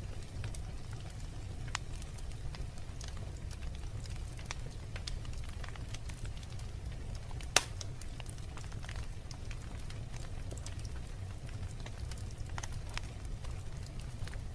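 Wood fire burning in a fireplace: a steady low rumble of flames with scattered crackles throughout and one sharp, loud pop about halfway through.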